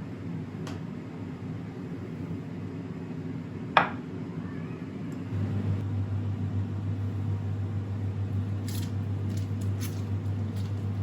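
Kitchen work sounds: a sharp click about four seconds in, then a steady low electric hum of an appliance starting up about a second later, with a few light clicks and handling sounds near the end, over a constant background hum.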